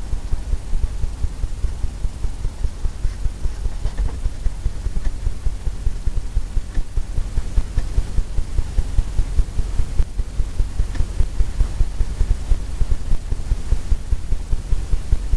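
Brush tapping oil paint onto a canvas on an easel, a steady run of dull low thumps at about four a second.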